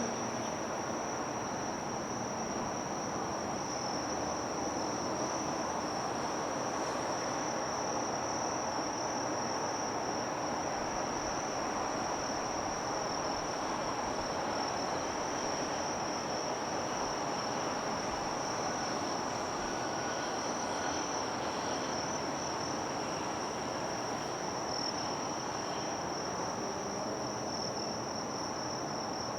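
Insects, crickets or similar, singing in one continuous high-pitched trill over a steady wash of outdoor background noise.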